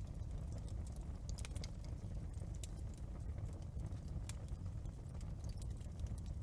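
Wood fire crackling in a fireplace: a steady low rumble of the burning fire with irregular sharp pops and snaps from the burning wood.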